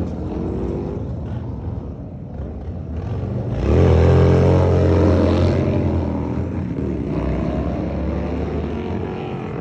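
Several motorcycle engines running and revving as the bikes ride off. One bike comes up loudly about three and a half seconds in, its engine note rising and holding for a couple of seconds before easing back, and other engines rev toward the end.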